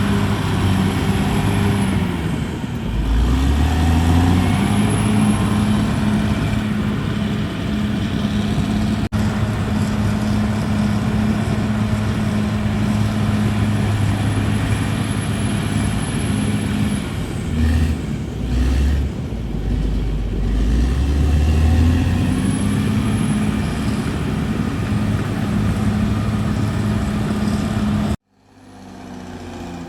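CAT D6R bulldozer's diesel engine running hard under load, its pitch dipping and rising a few times as it works. The sound cuts off suddenly near the end, and a quieter engine sound fades in.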